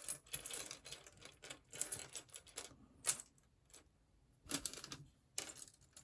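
Small plastic building-block parts being handled on a desk: irregular clicks and clattering, with a few short rustles.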